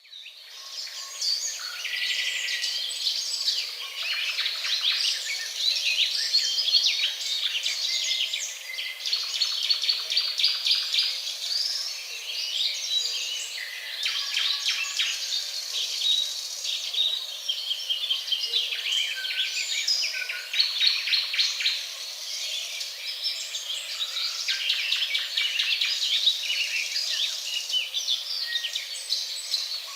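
Birdsong ambience effect: many birds chirping and singing at once in a dense, continuous chorus of short chirps and trills. It fades in over the first second or so.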